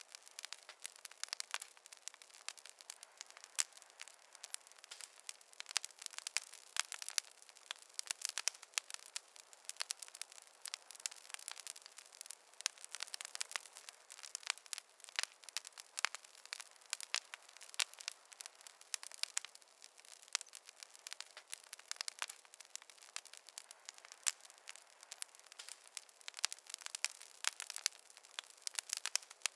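Wood campfire crackling continuously: a thick stream of small, sharp snaps and pops with no deep roar of flame underneath.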